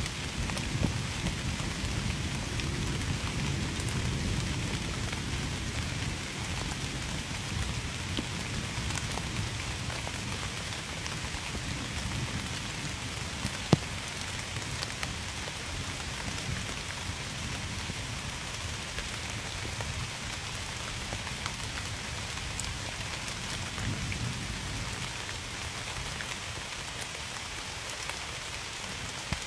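Steady heavy rain falling on a surface, with scattered drop taps. A low rumble of thunder dies away over the first several seconds, and a single sharp tap stands out about halfway through.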